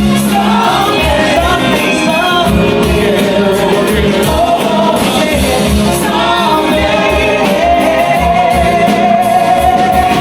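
Soul-style singing over a band, with a steady beat; the singer holds one long note through the last few seconds.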